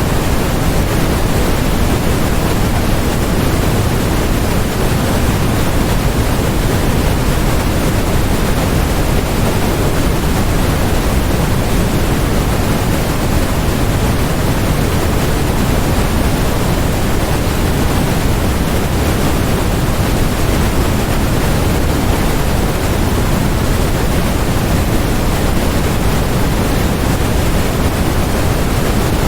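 Continuous white noise: an even, unchanging hiss with more weight in the low end, holding a constant level throughout.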